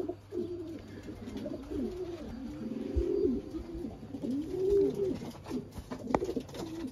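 Racing pigeons cooing at the loft: a run of low coos, each rising and falling in pitch, with a couple of short sharp taps.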